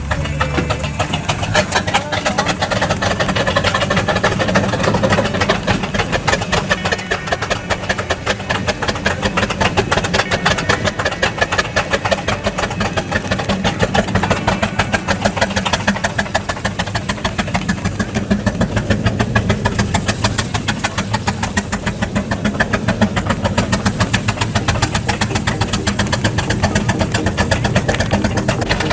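An engine running steadily at a constant speed, its firing heard as a rapid, even beat.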